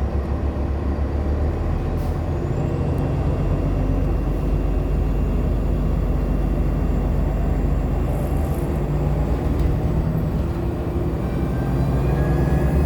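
Nova Bus LFSA hybrid city bus (Cummins ISL9 diesel with Allison H40 EP hybrid drive) running, a steady heavy low rumble, louder near the end with rising tones.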